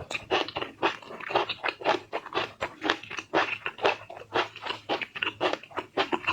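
A person chewing food in a steady rhythm of about four chews a second.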